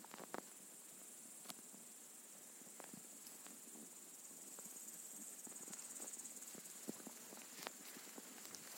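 Faint, steady high-pitched chorus of insects, with scattered soft clicks and rustles.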